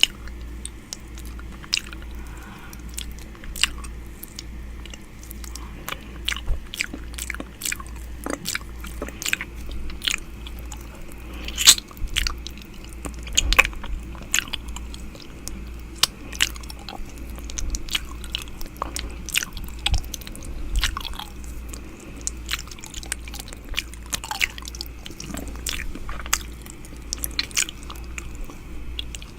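ASMR 'ear eating' mouth sounds made right against a microphone: wet clicks, smacks and nibbling noises, coming irregularly and often. A steady low hum runs underneath.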